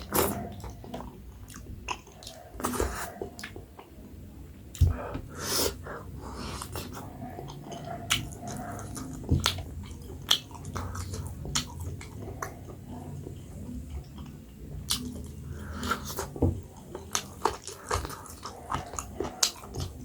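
A person eating close to the microphone: wet chewing, lip smacks and irregular small mouth clicks.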